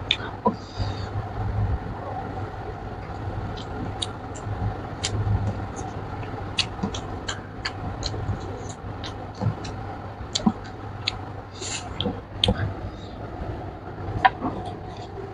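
Close-miked chewing and lip-smacking on a mouthful of pork and rice: irregular wet mouth clicks, a few sharper ones near the middle and end. A steady low hum runs underneath.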